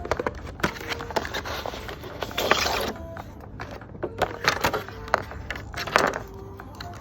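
Hands packing a parcel: wrapping material crinkles and rustles in three short bursts, with taps and clicks of items being handled in between.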